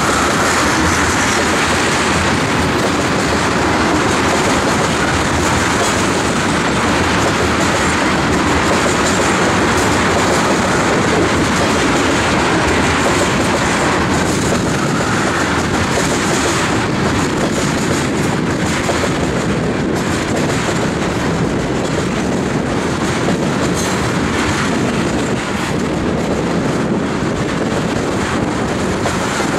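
Loaded tank cars of a heavy ethanol train rolling past: a loud, steady rumble of steel wheels on rail with repeated clicking as the wheels cross rail joints.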